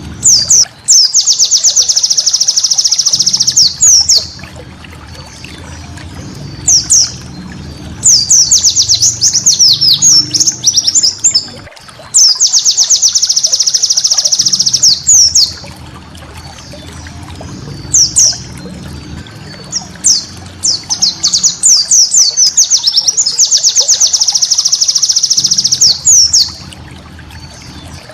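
White-eye (pleci) song: repeated bursts of rapid, high trilling chatter, some several seconds long and some brief, separated by short pauses, over a low steady hum.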